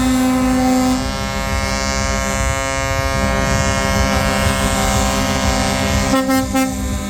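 Truck air horns sounding in long, held blasts over the rumble of passing trucks' engines, with the horn chord changing about a second in and again near the end.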